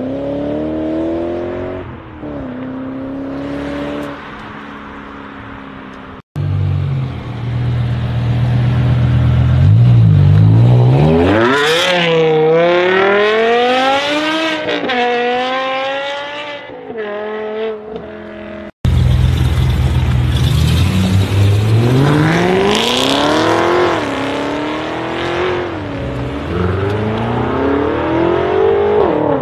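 Three BMW M cars in turn, with abrupt cuts between them. First an E39 M5's V8 runs as the car pulls away. Then an E60 M5's V10 revs hard from a low idle about a third of the way in, its pitch climbing steeply and then rising and falling. Last, an F12 M6 convertible's twin-turbo V8 accelerates, with revs rising, dipping and rising again near the end.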